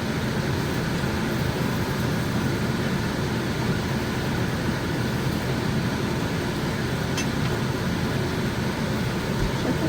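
A fan running steadily, an even low whoosh, with a faint click about seven seconds in.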